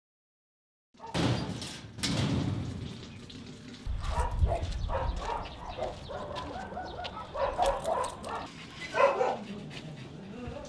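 Dogs barking and yipping in short repeated calls, starting about a second in, with rustling and handling noise and a low rumble about four seconds in.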